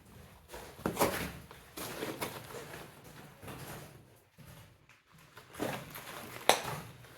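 Footsteps scuffing and crunching irregularly over loose rock, with a sharp knock about six and a half seconds in.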